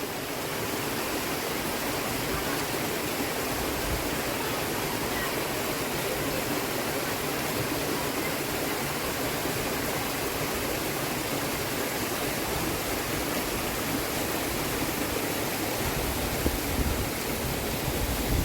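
Steady rush of flowing water, with a few low thumps near the end.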